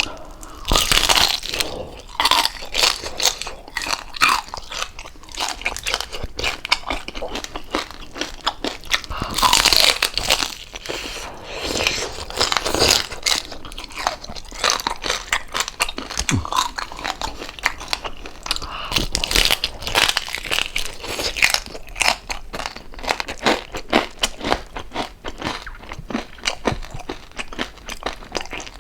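Close-miked crunching and chewing of crispy deep-fried pork jowl skin, bite after bite with irregular loud crackles.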